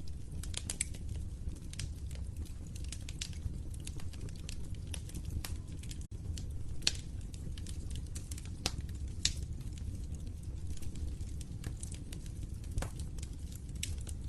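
Wood fire crackling in a fireplace: irregular sharp pops and snaps over a steady low rumble of the burning fire. The sound drops out for an instant about six seconds in.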